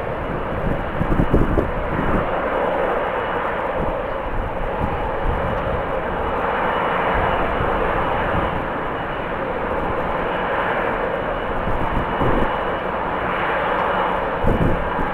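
Jet airliner engines running, a steady rush with a thin high whine, while strong wind gusts buffet the microphone with low rumbles, the heaviest about a second and a half in and near the end.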